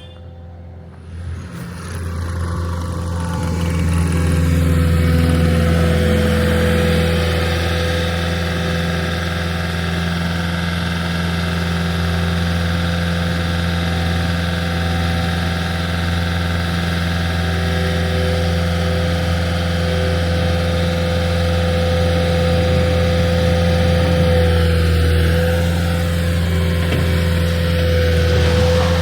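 Heavy construction equipment's engine running steadily, growing louder over the first few seconds and then holding at a constant pitch.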